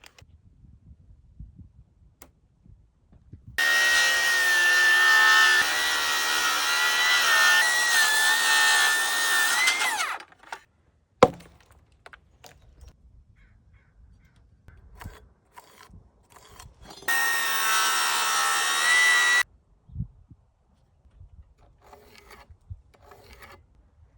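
Electric power tool working wood in two runs: a steady high whine of about six seconds that dips briefly under load, then a shorter run of about two seconds. A sharp knock falls between the two runs, and a dull thud follows the second.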